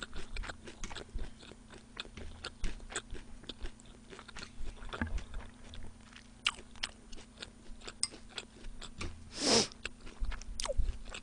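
Close-miked chewing of fried boneless chicken and shredded raw onion: a steady run of small crunches and wet mouth clicks, with one short, louder breathy noise about nine and a half seconds in.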